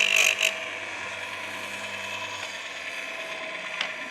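Baumr-AG electric chainsaw sharpener's grinding wheel touching a chain tooth in a brief, harsh burst at the start, then the motor spinning steadily with a steady hum. A single click near the end.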